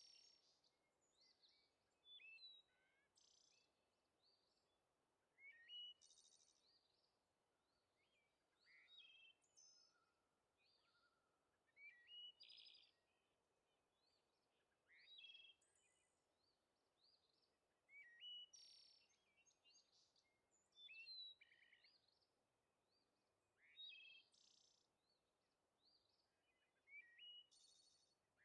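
Faint songbird singing short, varied phrases of whistles and trills, repeated every two to three seconds.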